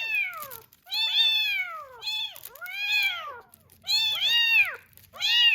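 Very young kitten meowing over and over, high-pitched calls about one a second, each rising and then falling in pitch: insistent crying to be fed.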